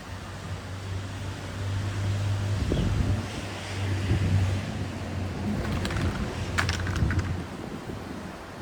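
Low, steady engine hum of a motor vehicle that grows louder in the middle and dies away about seven and a half seconds in, with a few sharp ticks shortly before it ends.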